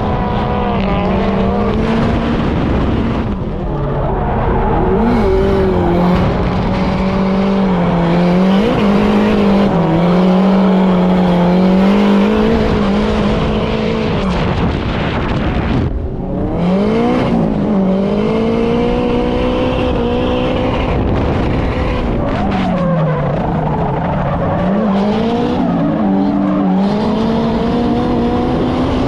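Turbocharged Nissan Silvia drift car's engine held at high revs, its pitch rising and falling as the throttle is worked, with tyre squeal under it. About sixteen seconds in the engine briefly drops away, then climbs again.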